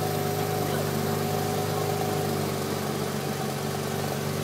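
Porsche 997 Turbo's twin-turbocharged flat-six idling steadily, with an even, unchanging tone.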